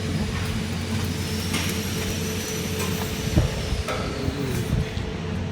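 Steady workshop machinery noise: a constant low hum with a scattering of small metallic clicks and one louder knock about three and a half seconds in.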